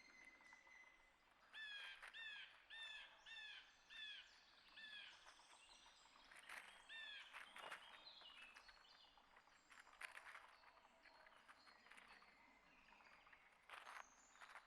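Faint small songbirds chirping: a run of about six quick down-slurred notes, then a few more chirps, with scattered soft ticks and rustles.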